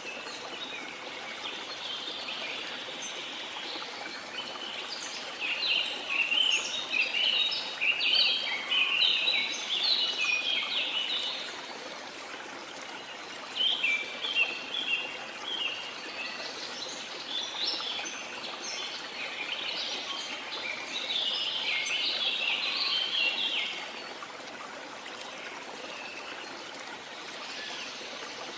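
A waterfall rushing steadily, with birds chirping over it in two long bouts of quick, high calls, the first starting about five seconds in and the second about fourteen seconds in; the calls fall away a few seconds before the end, leaving only the water.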